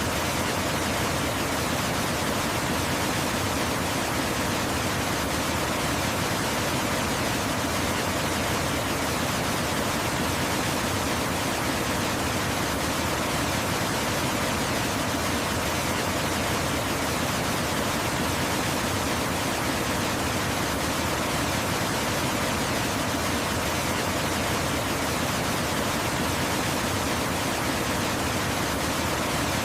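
Waterfall pouring: a steady, even rush of water that does not change.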